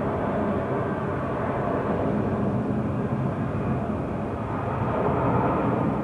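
Jet airliner engines running, a steady rumble that swells a little near the end.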